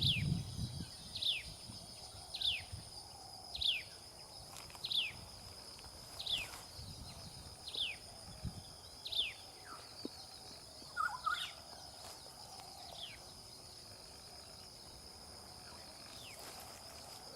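Common tailorbird repeating a single sharp, downslurred call note about once a second, the notes growing fainter and stopping after about thirteen seconds. A steady high insect whine runs underneath.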